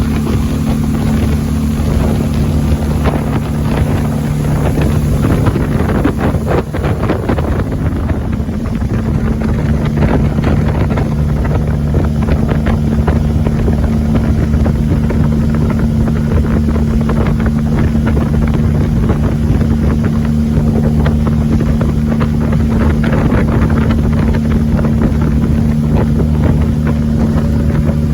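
A Judge Yachts 27 Chesapeake powerboat running steadily under way, its engine a constant low drone, with wind buffeting the microphone and rushing noise over it.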